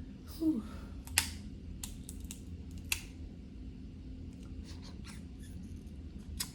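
Snow crab leg shells being cracked and snapped apart by hand: a few sharp cracks in the first three seconds, then a run of small clicks as the shell is picked apart.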